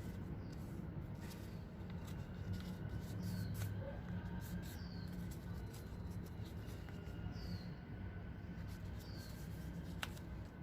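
A sheet of paper rustling and crackling as it is folded and creased into paper-airplane wings, with many short sharp clicks. Faint short high chirps come every second or two, over a low steady hum.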